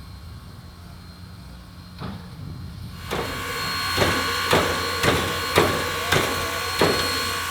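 Chesapeake & Ohio 1309 steam train coming near, growing louder about three seconds in, with a sharp beat about twice a second over a steady ringing tone.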